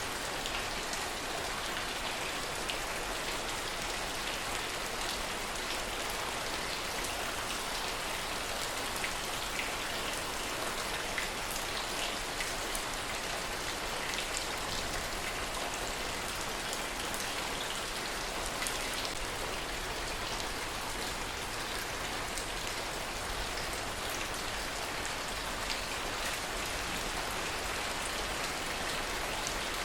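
Steady rain, an even hiss with scattered sharp ticks of single drops striking.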